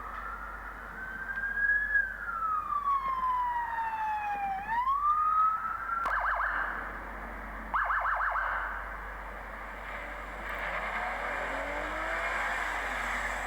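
Police car siren wailing in one slow rise and fall and rising again, then switching to two short bursts of a rapid warble a second or so apart. Fainter siren tones and a steady hiss of traffic follow.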